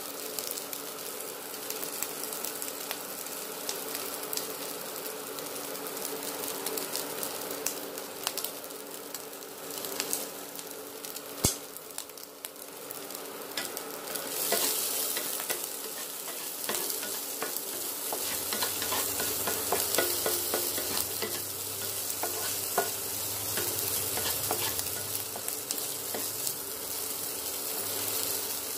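Diced ham frying in a little oil in a nonstick pan, a steady sizzle full of small pops and crackles that grows louder about halfway through, with one sharp click a little before that. Near the end a wooden spatula stirs the ham around the pan.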